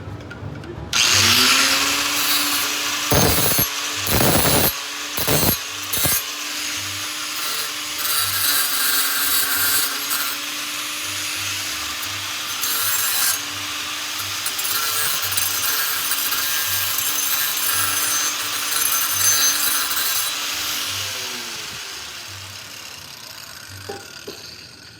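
A handheld power tool spins up about a second in and runs for some twenty seconds, its cutting or grinding hiss swelling and dipping as it bears on the work. It then winds down near the end.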